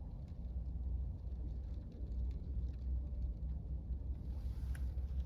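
Steady low rumble heard from inside a parked car in a storm, with scattered faint taps of light rain on the car body and a brief hiss near the end.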